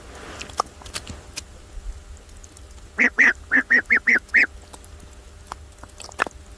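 A duck quacking: a quick run of about seven short quacks about three seconds in, with a few soft clicks around it.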